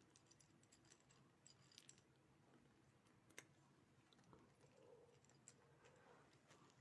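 Near silence with faint, scattered small clicks and ticks, one sharper click about three and a half seconds in.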